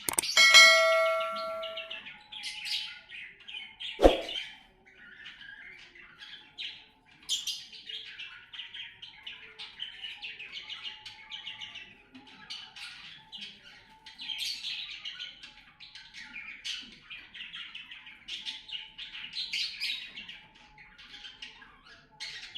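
Cockatiels chirping and calling continuously. A steady pitched tone with overtones is held for under two seconds near the start, and there is a single sharp knock about four seconds in.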